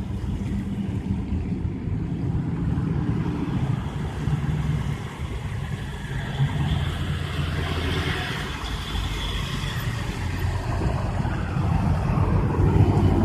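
Truck engines running steadily with road noise, a low rumble, with a swell of higher-pitched noise about seven to nine seconds in.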